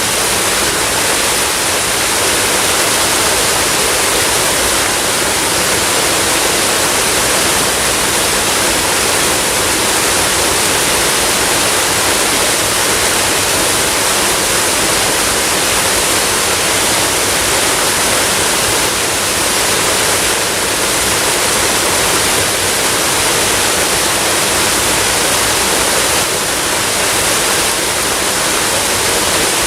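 Waterfall: steady, continuous rush of falling water, an even hiss without breaks.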